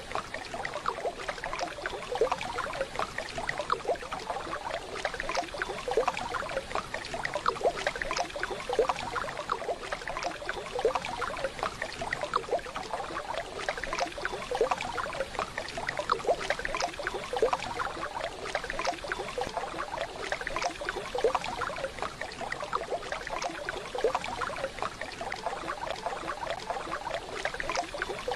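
Waterfall: a steady rush of falling water with constant splashing.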